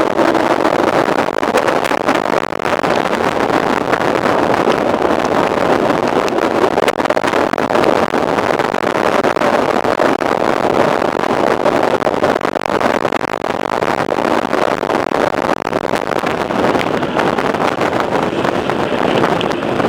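Mountain bike being ridden on a trail: a steady rush of tyre and wind noise on the camera microphone, with constant small rattles and clicks.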